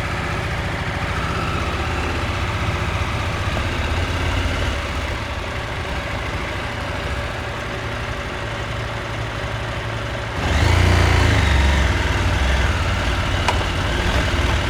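Husqvarna Norden 901's parallel-twin engine running at low revs, then about ten seconds in it gets suddenly louder as the throttle opens and the revs climb.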